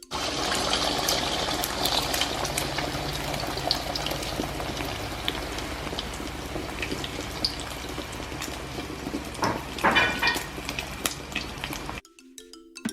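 Hot cooking oil sizzling and crackling, with a louder surge of sizzling about ten seconds in; it cuts off suddenly near the end.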